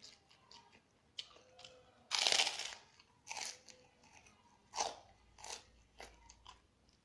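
A person biting and chewing crunchy food: one long, loud crunch a little after two seconds in, followed by several shorter crunches as it is chewed.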